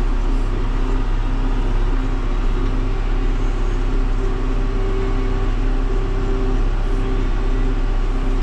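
John Deere tractor engine running steadily with a constant low hum, working in the hay field.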